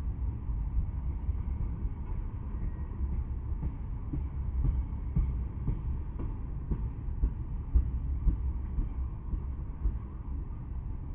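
Tank cars of a long freight train rolling past: a steady low rumble of steel wheels on rail, with irregular knocks and clanks from the wheels and trucks, most frequent in the middle.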